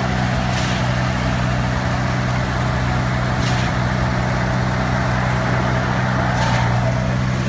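Heavy diesel engine running steadily with a low even hum, with faint brief swishes about every three seconds.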